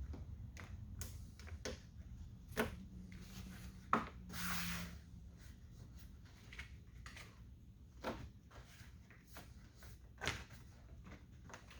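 Scattered clicks and light knocks of a plastic door trim piece and its clips being handled and pressed against a pickup door, with a short scrape a few seconds in.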